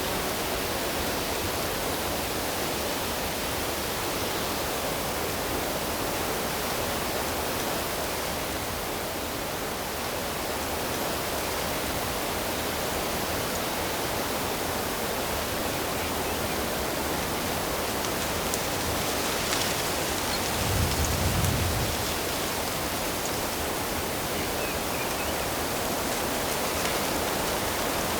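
Steady rushing of flowing water, an even hiss with no rhythm of waves. A brief low rumble comes about three-quarters of the way through.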